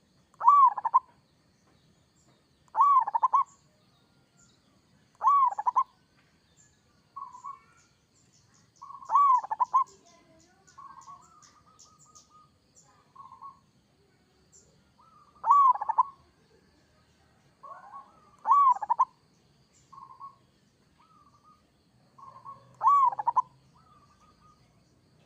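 Zebra dove (local perkutut) cooing: loud, rolling coo phrases repeated every few seconds, with softer single coos between them.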